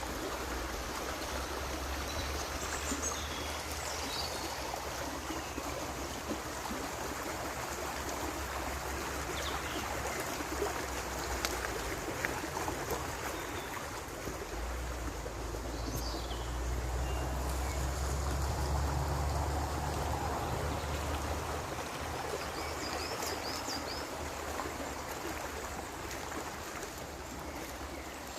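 River water running steadily over stones, a continuous rushing with some trickling. A few short high chirps come through it now and then, and a low rumble rises under it twice.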